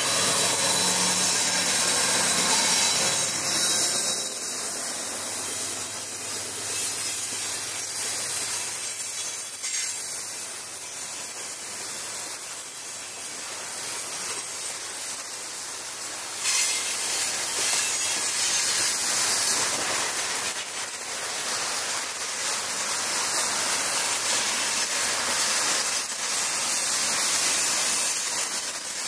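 Freight train of tank wagons rolling past at speed: a steady rushing of steel wheels on rail that swells and dips as the wagons go by. The C36-7i diesel locomotive's engine drone fades away in the first few seconds.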